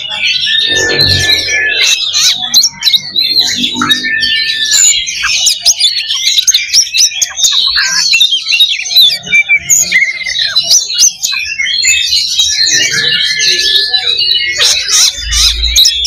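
Several Oriental magpie-robins (kacer) singing at once in a dense, unbroken chorus of rapid chirps and warbles, with a held, level whistle-like note repeated three times, the kind of competitive song played to rouse a kacer's fighting spirit.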